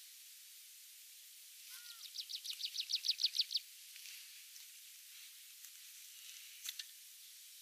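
Tree pipit singing: a fast run of about a dozen repeated high notes, growing louder, then fainter scattered notes and a short sharp note near the end.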